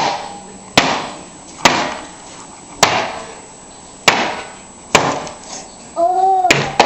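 A hammer striking a wooden entertainment center again and again, about eight sharp blows at roughly one-second intervals, each ringing briefly as the piece is smashed apart.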